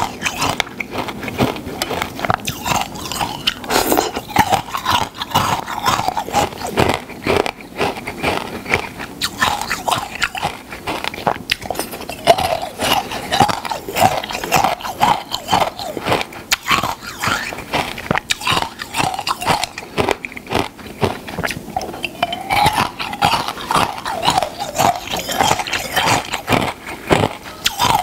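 Close-miked biting and crunchy chewing of food, a dense run of sharp crunches that keeps going throughout.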